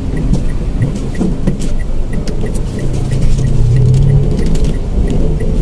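Mitsubishi Mirage car driving, heard from inside the cabin: a steady low engine and road rumble with scattered small knocks. The engine hum grows stronger for a second or so past the middle.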